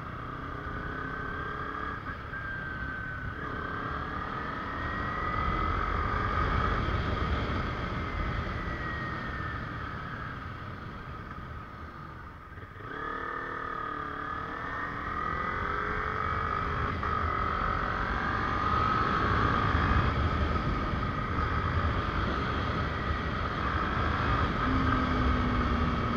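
Kawasaki Ninja 250R's parallel-twin engine under way, its pitch rising and falling with the throttle. About halfway through the sound dips briefly, then the engine pulls up again, over a low rush of wind and road noise.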